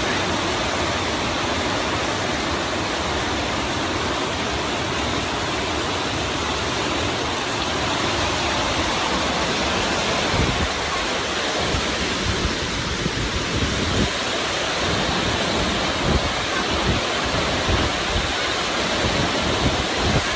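Heavy rain falling in a steady downpour, with short low thumps coming in from about halfway through.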